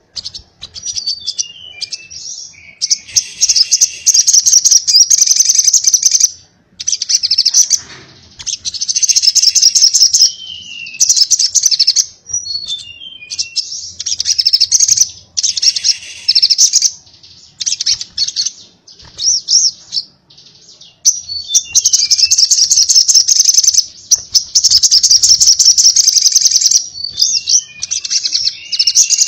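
A sogok ontong sunbird singing loudly in long, very rapid, high-pitched chattering bursts of several seconds each. Between the bursts come short down-slurred chirps and brief pauses: the fast, sputtering 'konslet' song style.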